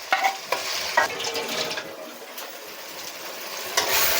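Onions and spices sizzling in hot oil in a kadai, with a few clinks of a stirring spoon against the pan early on. The sizzle swells louder near the end.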